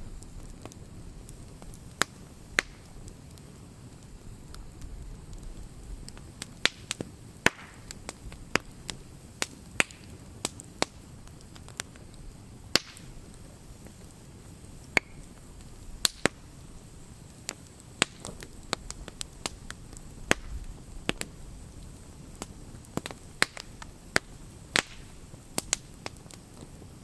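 Wood campfire crackling: sharp irregular pops and snaps from the burning wood, a few much louder than the rest, over the steady low noise of the flames.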